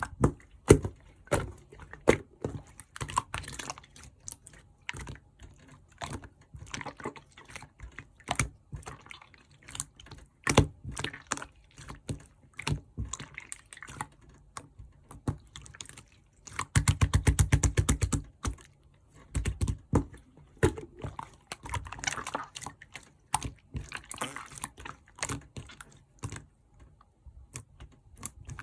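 Clear slime being squeezed, poked and stretched by hand, making irregular sticky clicks, pops and squelches. About two-thirds of the way in there is a fast run of crackling pops lasting a second or two.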